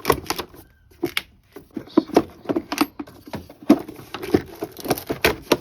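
Irregular clicks and knocks of hands and tools working on plastic engine-bay parts, in uneven clusters, as the radiator fan shroud assembly is worked free.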